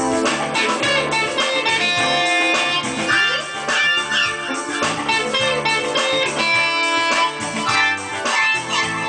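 Music led by an electric guitar playing runs of notes with pitch bends over a repeating bass line.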